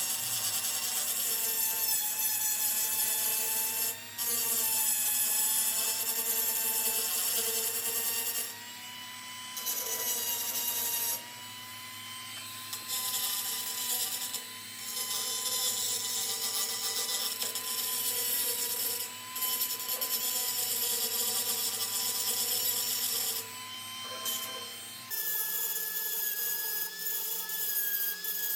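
Handheld power grinder blending down welds on a steel dirt bike frame: a steady motor whine with a loud gritty grinding hiss that comes and goes in stretches of a few seconds as the abrasive is pressed on and lifted off the metal. Near the end the whine shifts to a higher pitch.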